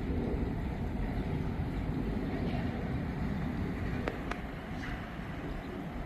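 Freight train wagons rolling past with a steady low rumble, wind on the microphone, and two sharp clicks about four seconds in.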